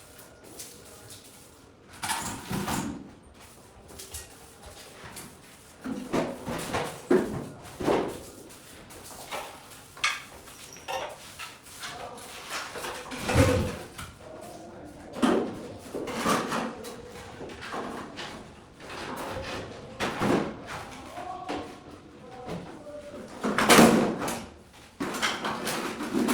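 Irregular knocks, bangs and clattering thuds at uneven intervals, two of them louder than the rest: one about halfway through and one near the end.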